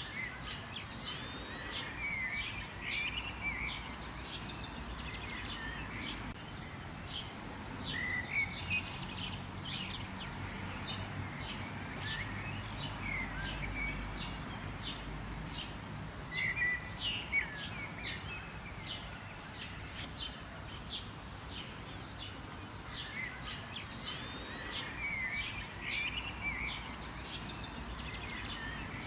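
Several birds chirping and calling, with many short, quick high notes throughout over a faint steady background hiss.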